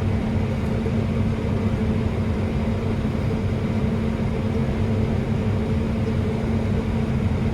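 New Holland combine running steadily, heard from inside its cab: an even low drone with a constant hum.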